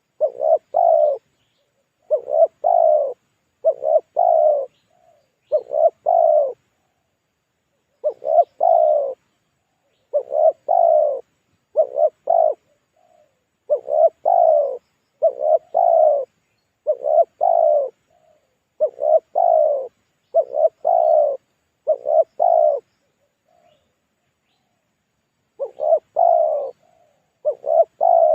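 Spotted dove (tekukur) cooing, played as a lure call: short low coo phrases repeated about every one to two seconds, with a gap of about three seconds near the end.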